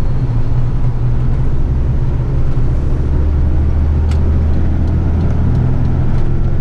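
Heavy eight-wheeler truck's diesel engine droning steadily under load while driving, heard with road noise from inside the cab. The low engine note grows stronger about two seconds in, and there is a faint click about four seconds in.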